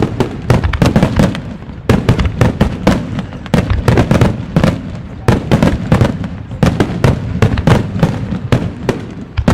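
Wide starmine fireworks display: a rapid-fire barrage of aerial shells launched and bursting close by, many sharp bangs a second in waves that swell and restart every second or two.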